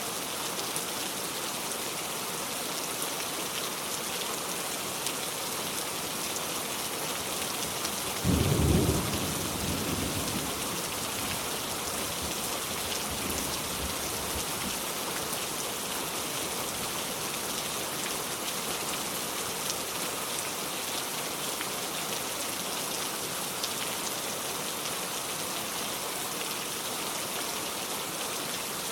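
Steady rain, with one loud clap of thunder about eight seconds in that rumbles away over the next several seconds.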